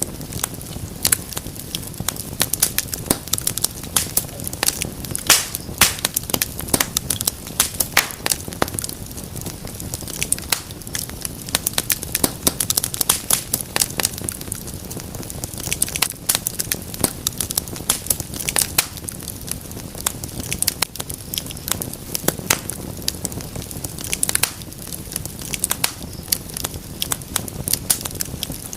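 Wood fire crackling steadily in a fireplace, with frequent sharp irregular pops and snaps over a low, soft rumble of the flames.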